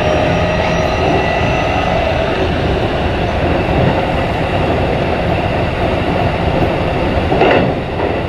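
Keikyu 1500 series motor car DeHa 1537 running on the line, heard from inside the car: a steady loud rumble of wheels and running gear with a faint whine from its Toyo Denki IGBT-VVVF traction equipment. There is a brief louder swell about 7 seconds in.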